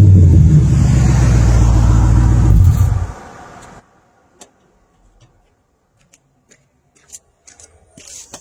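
Ford Crown Victoria Police Interceptor's 4.6-litre V8 running through a dual glasspack exhaust with a deep low exhaust note, stopping abruptly about three seconds in. Afterwards only a few faint clicks.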